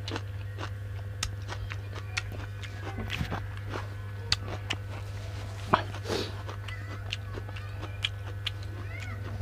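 Close-up mouth sounds of eating: scattered wet clicks and smacks of chewing, over a steady low hum.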